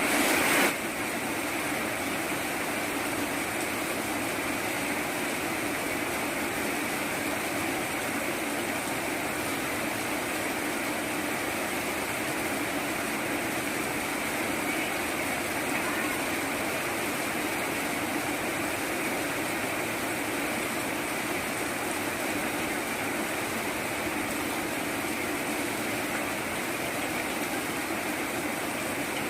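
Steady rain falling, an even hiss that stays constant throughout, a little louder for the first moment.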